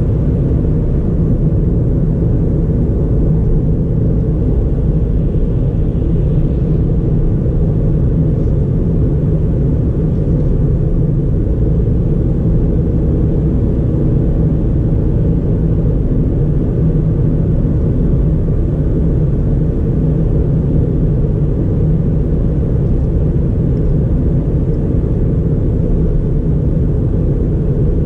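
A 2009 Ford Fiesta 1.4 automatic driving at a steady speed: a low, even rumble of its 1.4-litre four-cylinder engine and its tyres on the road.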